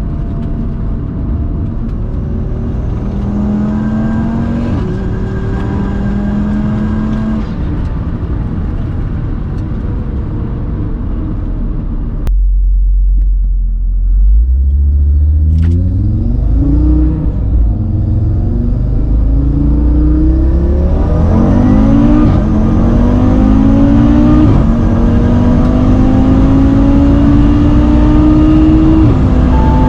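Tuned Audi RS3's turbocharged five-cylinder engine running steadily, then, about 12 seconds in, going suddenly to full-throttle acceleration. The engine pitch climbs and drops back at each upshift, about five times, as it pulls through the gears toward top speed.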